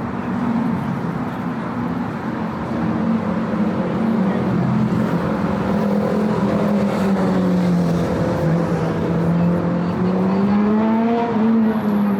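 City street traffic with a car engine running close by. Its pitch slowly sinks, then rises about ten seconds in as the car accelerates.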